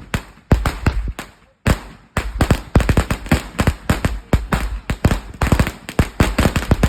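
A Sawa 1k string of a thousand firecrackers going off: a rapid, irregular run of sharp bangs, with a brief gap about a second and a half in before the bangs resume.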